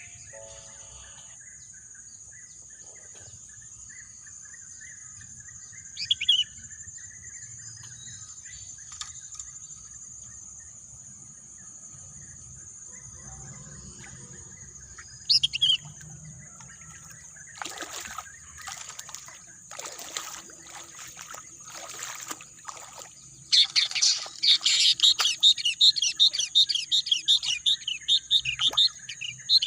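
Wild birds calling: a short call about six seconds in and another near fifteen seconds, scratchy calls from about eighteen seconds, then a loud, rapid chattering song to the end. A steady high-pitched hiss runs underneath.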